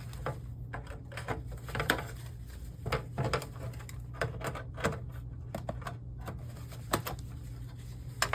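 Irregular sharp clicks and snips of cutters cutting through the monitor's internal cables, with knocks of parts being handled, over a steady low hum.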